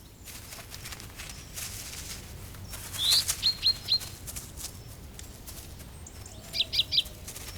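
Small bird chirping over a steady outdoor background: a short rising call followed by three quick high chirps about three seconds in, and another quick run of four chirps near the end.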